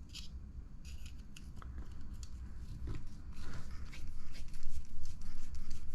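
Light clicks, taps and rustling of small RC car kit parts, a screw and tools being handled by hand, getting busier and louder in the second half.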